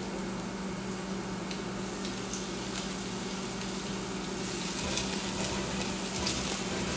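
Flour-coated sausages frying in hot oil in a cast-iron skillet, a steady sizzle that grows louder about four and a half seconds in.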